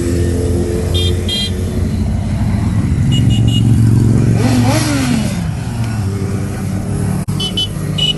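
Vehicle engines running at low speed, with one revving up and back down about halfway through. There are a few short, high-pitched beeps.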